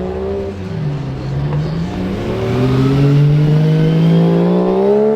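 Car engine accelerating: its pitch dips briefly about a second in, then climbs steadily and grows louder.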